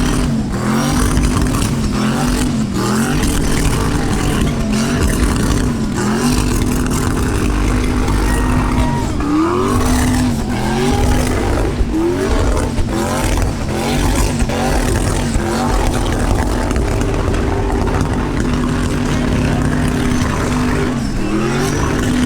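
V8 engine held at high revs in a burnout, its pitch dipping and climbing back again many times at irregular intervals, over a steady rushing haze.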